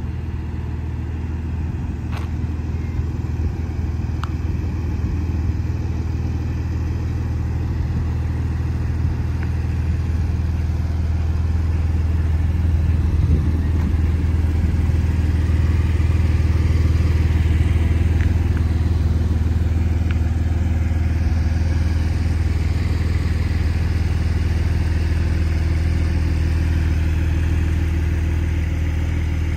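Porsche 911's flat-six engine idling steadily.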